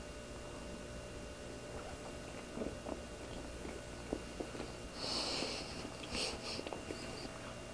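Faint, soft chewing of a cream-filled chocolate roll cake with the mouth closed: small wet clicks of the mouth, with a short breathy hiss through the nose about five seconds in and again a second later.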